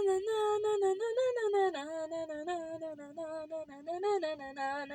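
A young person's voice singing a melody with no accompaniment and no clear words, note by note in short syllables. The tune dips to lower notes about two seconds in.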